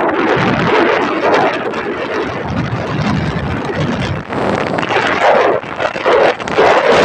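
Wind buffeting the microphone on a moving motorcycle, a loud, gusting rush that rises and falls.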